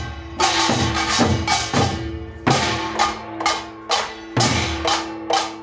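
Percussion music: sharp wood-block-like clacks and drum strikes, about two to three a second, over a steady ringing tone.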